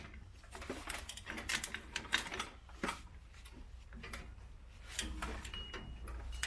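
Box-end wrench clicking and tapping against a parking brake cable's metal retaining clip as it is worked over the clip to release it: irregular light metal-on-metal clicks.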